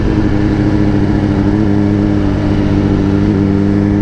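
Motorcycle engine running at a steady cruise, its pitch dipping slightly a couple of times, over a rush of wind and road noise.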